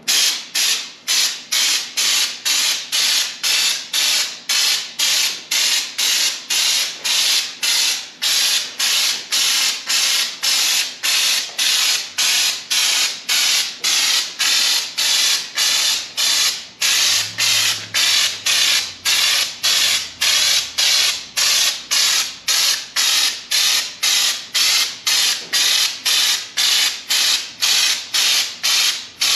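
Air-powered bed liner spray gun spraying Raptor liner in short, evenly repeated hissing bursts, about two to three a second, without a break.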